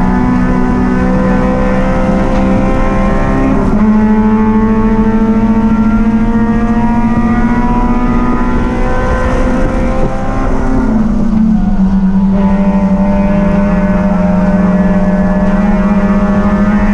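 Race vehicle engine running hard at a nearly constant pitch, with a small step up in pitch about four seconds in and a short dip and settle to a slightly lower pitch about eleven seconds in.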